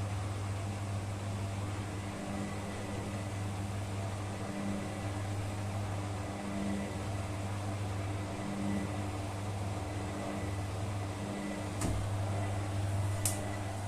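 Beko washing machine running: a steady low motor hum with a swell about every two seconds as the drum turns. A couple of sharp clicks come near the end.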